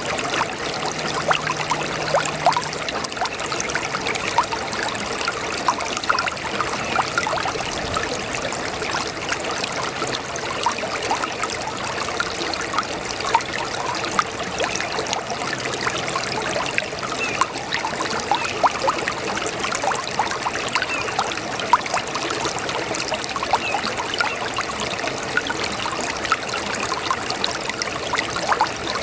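A babbling brook: a steady trickle of running water, with many small splashes and gurgles.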